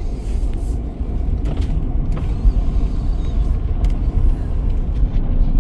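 Steady low rumble of a vehicle in motion, heard from inside the cab, with a few light clicks and creaks.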